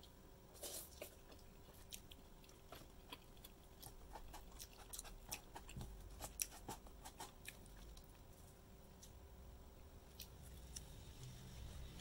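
Person chewing a mouthful of rice: faint, irregular soft mouth clicks over a steady low hum.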